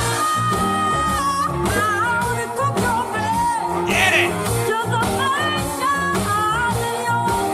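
A girl singing a soul ballad live with a band, her voice gliding between notes over bass, guitar and drums, with a brief high run about four seconds in.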